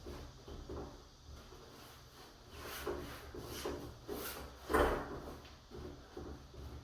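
Repeated short rubbing strokes on wood, a few a second, with one louder stroke a little before the end.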